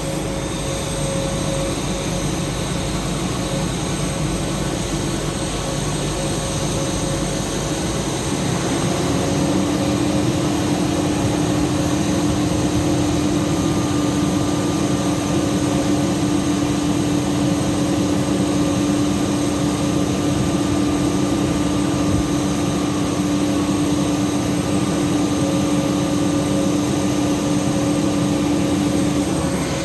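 Steady noise of a Boeing 737-800 at the stand before pushback. A steady hum joins about nine seconds in and stops just before the end.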